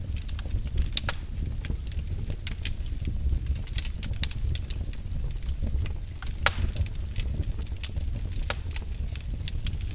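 Wood fire burning in a fireplace: a steady low rumble of the flames with irregular sharp crackles and pops, one louder pop about six and a half seconds in.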